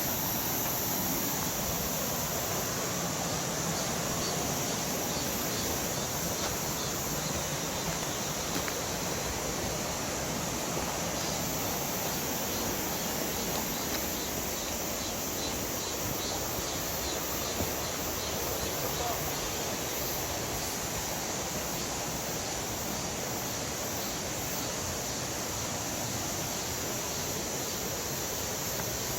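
Mountain stream flowing: a steady rush of water over rocks, with a faint high-pitched pulsing repeating about twice a second.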